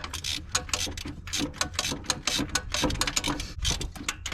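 Ratchet wrench clicking in quick repeated strokes as a pipe-taped threaded fitting is tightened into the engine.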